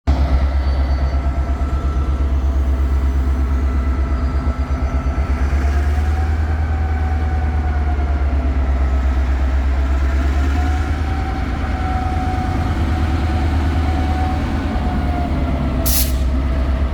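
EMD GP38 diesel-electric locomotive's two-stroke V16 engine running steadily with a deep, constant throb, and a short sharp hiss of air near the end.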